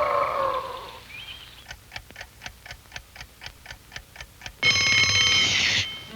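Cartoon sound effect of a clock ticking at about four ticks a second, then an alarm clock bell ringing loudly for about a second before cutting off.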